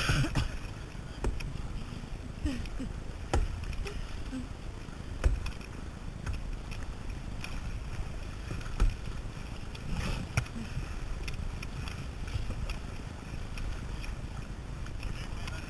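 Kayak paddling: water sloshing against the hull, with scattered sharp knocks and splashes from the paddles, over a steady low rumble.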